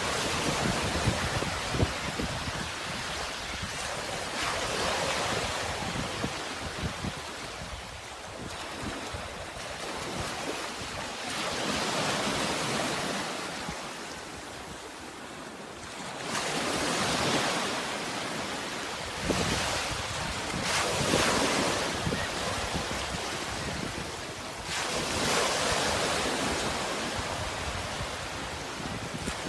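Sea waves washing onto a shore, swelling and receding in slow surges every four to six seconds.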